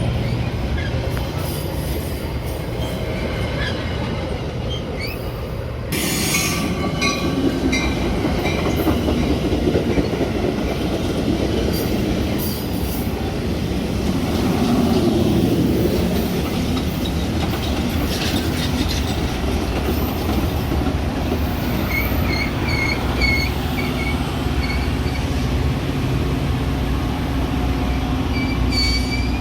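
Metra commuter train running on the rails, a steady rumble that gets louder about six seconds in, with short high-pitched wheel squeals near the end.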